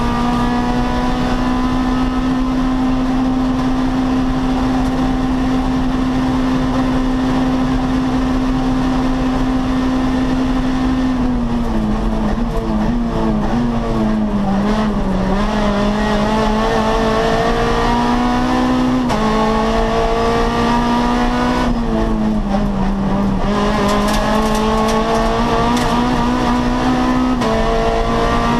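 Rally car engine heard from inside the cockpit, driven hard at high revs along a stage. The engine note holds steady at first, then drops and climbs again twice, with a sudden step in pitch at each climb as the car shifts gear.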